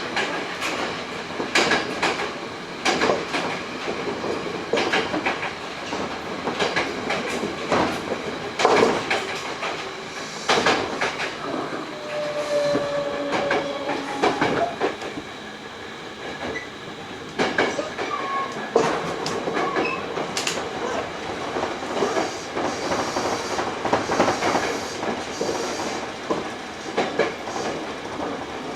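A Hankyu 8000 series electric train (set 8006F, fitted with Toshiba GTO-VVVF inverters) running, heard from inside a passenger car. The wheels click over the rail joints many times over a steady rumble, with a short whining tone about twelve seconds in.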